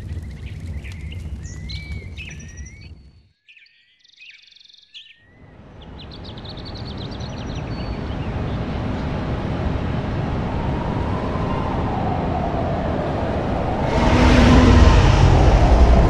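Birds chirping over a low rumble. About three seconds in the rumble drops out, leaving only a few faint chirps, then a rumbling noise swells steadily, with a tone that slowly bends in pitch, and turns loud near the end.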